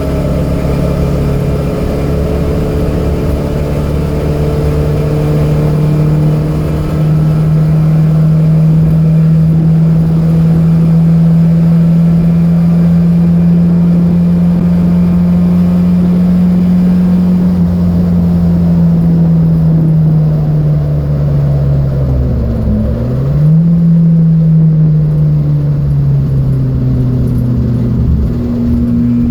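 Datsun B210's four-cylinder engine running hard, its pitch climbing slowly and then easing off. About two-thirds of the way in the pitch dips sharply and comes straight back up, and near the end it settles lower.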